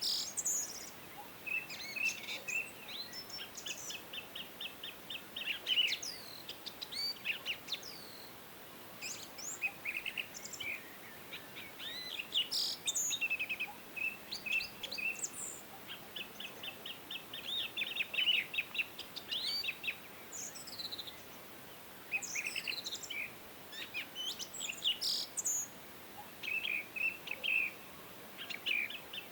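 Several songbirds singing and calling together: rapid chirps, trills and short down-slurred whistles, over a faint steady background hiss.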